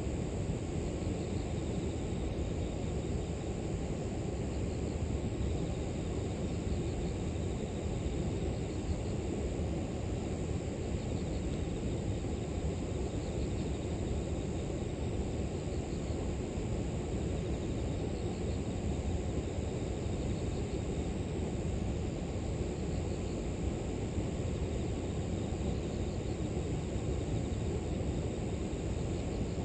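Steady rushing of river water, low and even, with faint chirping of grass insects in short repeated pulses above it.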